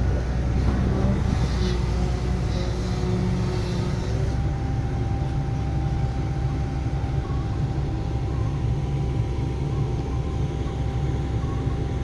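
Diesel engine of heavy construction machinery running steadily, with a low rumble and faint hiss bursts in the first few seconds.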